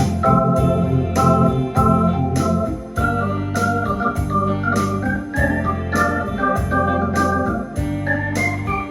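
Electronic organ playing a melody in sustained notes over a bass line that pulses in a steady beat, with regular percussion ticks keeping time.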